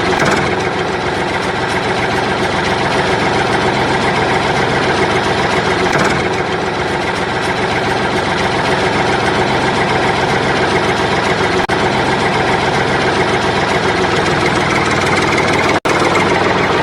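A vehicle engine running steadily at a low idle-like pace, cut off for an instant twice near the end.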